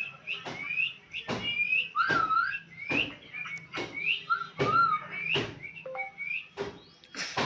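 Parrot whistling: a run of short, rising whistled notes, about one or two a second, with a few lower wavering notes, between sharp clicks.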